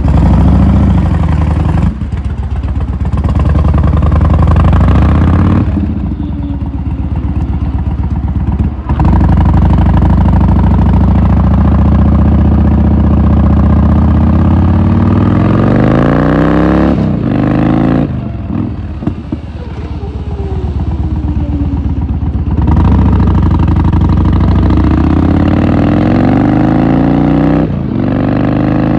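Yamaha Warrior 1700 V-twin running through a Cobra Swept exhaust with the baffles fitted, under way on the road. It has a slightly quieter, rich and fuller tone, and the revs rise and fall several times with a few brief dips.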